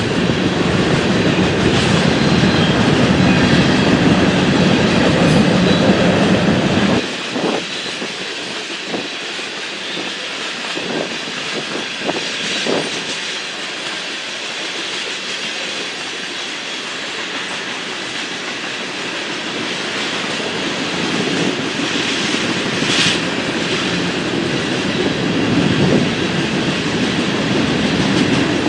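Freight train rolling past, its cars clacking over the rail joints. The heavy low rumble drops off suddenly about seven seconds in and builds again toward the end.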